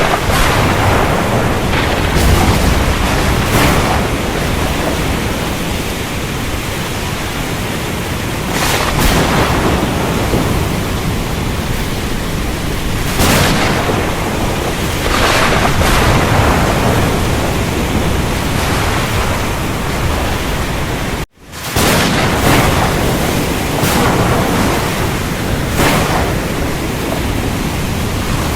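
Thunderstorm: a steady hiss of heavy rain with thunder, the sound swelling briefly about ten times. It cuts out for an instant about three-quarters of the way through.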